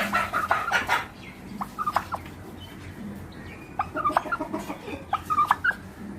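Short pitched animal calls in quick runs, clucking or chirping, after a loud burst of noise at the very start.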